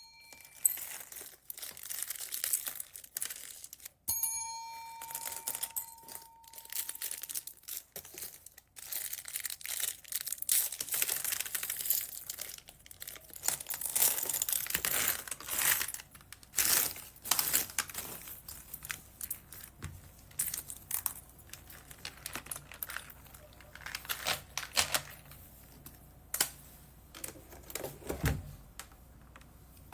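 Plastic bags of beads crinkling and rustling as they are handled and opened, with small irregular clicks throughout. A single bell-like ding rings out about four seconds in and fades over a few seconds.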